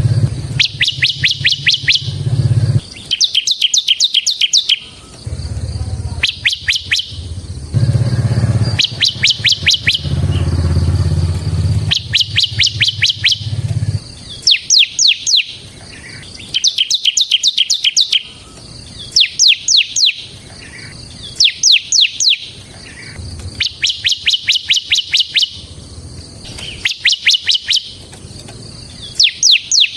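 Bar-winged prinia (ciblek semi) singing in its fast, rattling 'ngebren' style: repeated bursts of rapid high notes, each about one to two seconds long, following one another with short pauses. A low rumble lies underneath during the first half.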